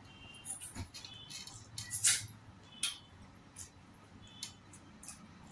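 Close-up mouth sounds of someone eating rice and curry by hand: wet chewing and lip smacks, a string of short clicks with a louder smack about two seconds in.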